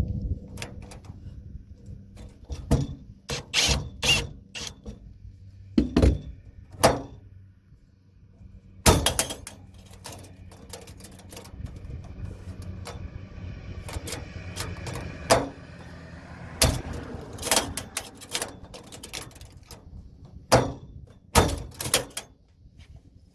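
Irregular sharp knocks and clunks of metal hardware being handled and fitted on a truck cargo-bed toggle latch, with a stretch of scraping noise in the middle.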